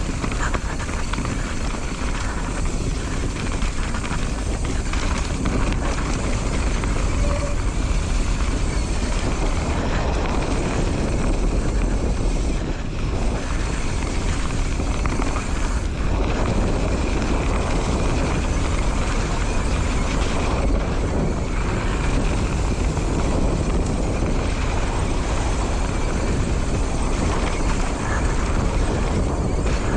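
Steady rushing noise of wind over the camera microphone and tyres rolling on a dirt trail as a mountain bike descends.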